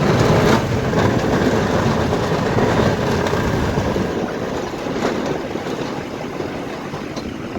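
Snow plow truck running while plowing, a steady rushing noise that peaks in the first second, then slowly eases off.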